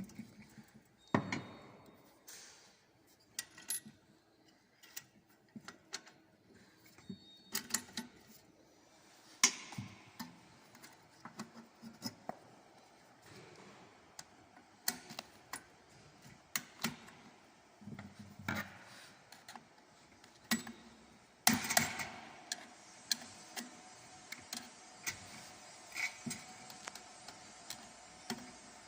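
Irregular clicks, knocks and metallic clinks of tools and parts being handled while the membrane of an AGRI-M1 mechanical bird-scaring cannon is replaced.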